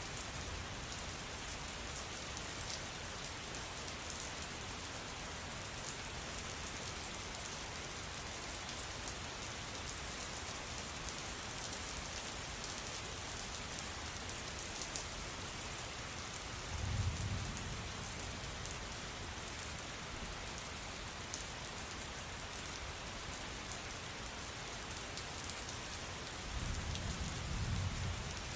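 Steady rain falling, with fine ticks of individual drops. There are two short low rumbles, one a little past halfway and one near the end.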